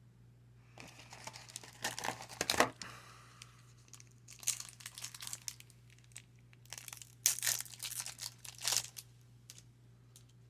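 A baseball card pack wrapper being torn open and crinkled by hand, in three bouts of crackling.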